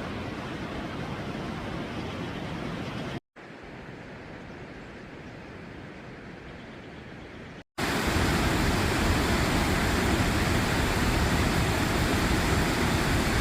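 Steady rush of a waterfall, heard in three cut-together clips: the middle one quieter, then louder and fuller from about eight seconds in.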